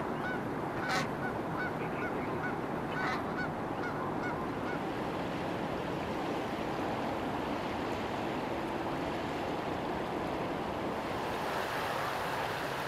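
Waterfowl, mostly geese, honking in a quick series of short calls during the first few seconds, then falling quiet. A steady rushing noise runs underneath throughout.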